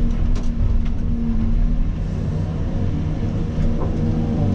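Caterpillar 336 excavator's diesel engine running steadily, with a few faint knocks.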